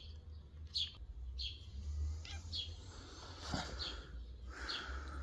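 A small bird chirping over and over: short, high, downward-sliding chirps, one about every three-quarters of a second, over a low steady rumble.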